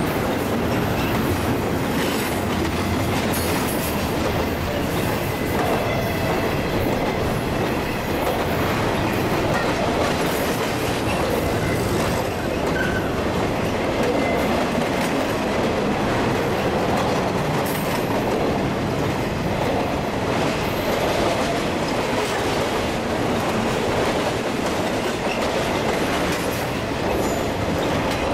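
Florida East Coast Railway intermodal freight cars rolling past at speed: a steady rumble and clatter of steel wheels on the rails, with a faint wheel squeal now and then.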